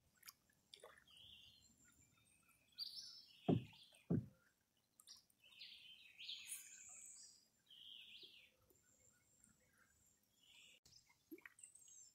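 Birds calling and chirping along a wooded river, short high calls scattered all through. Two dull thumps come about three and a half and four seconds in.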